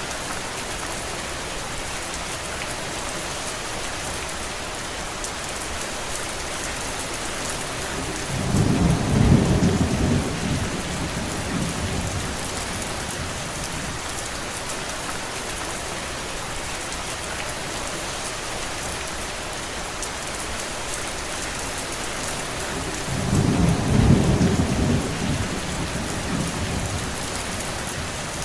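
Steady rain falling, with two low rolls of thunder, each rumbling for a few seconds: one about a third of the way in and another some fifteen seconds later.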